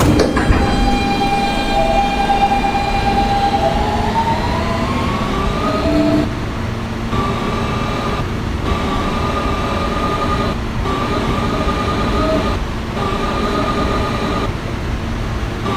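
R160B subway car with Siemens AC propulsion pulling out and accelerating. A sharp knock just after the start is followed by the traction motors' whine, which rises in pitch and then holds in steady notes broken by brief dips, over rumbling wheel and track noise.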